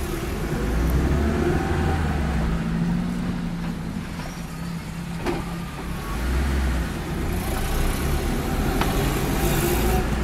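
Lada VAZ-2104 inline-four engine running as the car drives off, heard from inside the cabin, its hum swelling twice as it pulls through the gears. Two sharp clicks, one about halfway through and one near the end.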